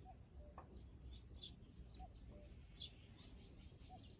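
Faint chirps of small birds: short, high notes, several a second at times, scattered throughout.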